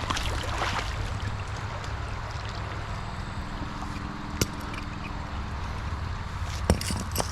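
Creek water running steadily, with two sharp knocks, one about halfway through and one near the end.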